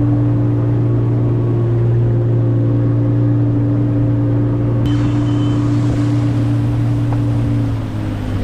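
Boat motor running steadily at speed, a loud, even drone. Its note drops slightly near the end as it eases off.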